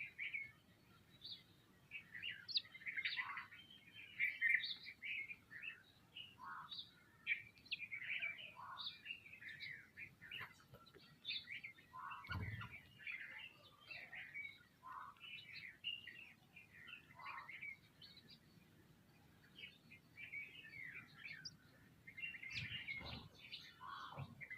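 A feeding flock of sparrows and other small birds chirping continually in quick overlapping calls, with a low thump about halfway through and another near the end.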